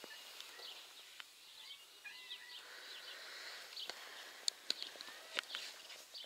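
Small birds chirping and calling in short scattered notes over a light outdoor background hiss, with a few sharp clicks between about four and five and a half seconds in.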